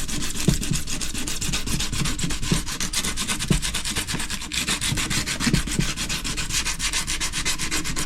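A file rasping back and forth over a drain gully in steady, continuous strokes, smoothing down the stubs of cut-off fins before a fibreglass repair.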